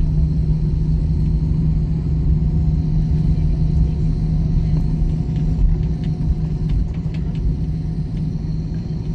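Steady low rumble of an airplane's engines with a faint, even high whine above it, holding at one level with no rise or fall.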